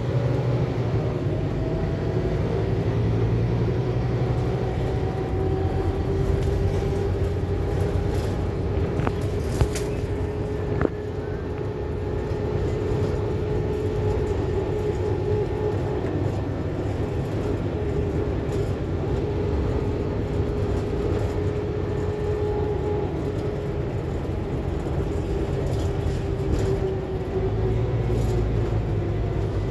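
Scania K280UB4 city bus heard from inside while driving: a steady low engine and drivetrain rumble with a whine that rises as the bus picks up speed, holds while it cruises, and drops away near the end as it slows. A couple of sharp clicks about ten seconds in.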